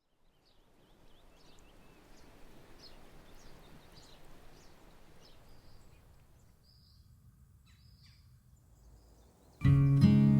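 Outdoor ambience: a soft, steady noise with small birds chirping now and then. About a second before the end, acoustic guitar music starts suddenly and loudly.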